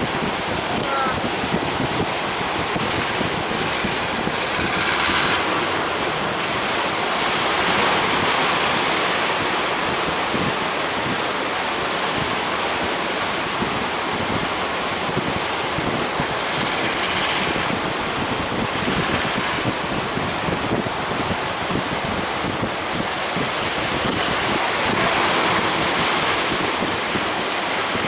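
Large ocean waves breaking as surf, a steady rushing wash that swells about a third of the way in and again near the end, with wind buffeting the microphone.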